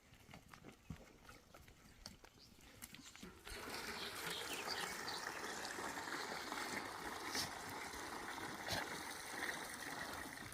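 Water running in a steady trickle that starts suddenly about three and a half seconds in, after a few faint clicks.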